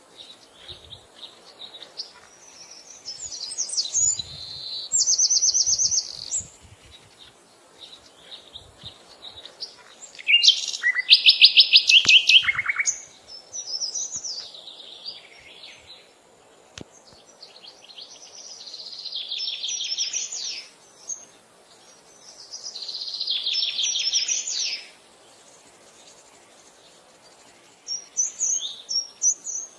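Wild birds singing: several trilled phrases of rapidly repeated high notes, the loudest about a third of the way in and two more later on, with scattered short chirps between them.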